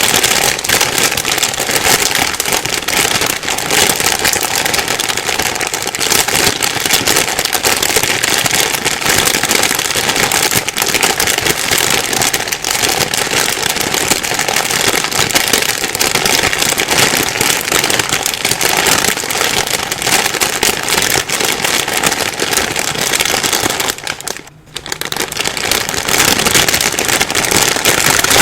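Plastic bag rustling and crinkling continuously, a dense crackle of fine crinkles, with a brief pause near the end.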